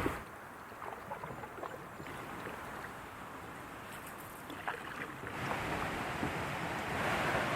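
Small water splashes and drips around a canoe on the water. After about five seconds, a steady rushing wind noise on the microphone grows louder.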